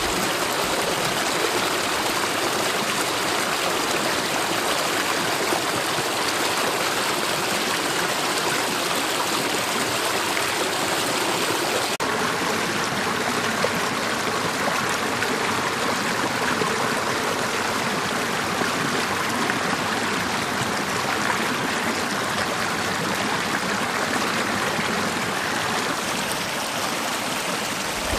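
Mountain valley stream flowing steadily, an even, unbroken rush of water.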